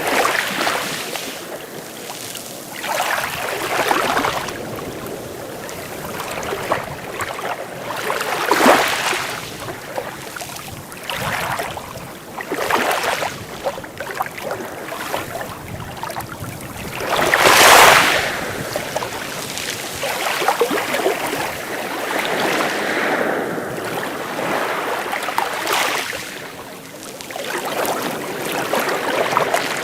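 Small sea waves washing in and out, a steady rushing wash that swells with each wave every few seconds, the biggest surge about eighteen seconds in.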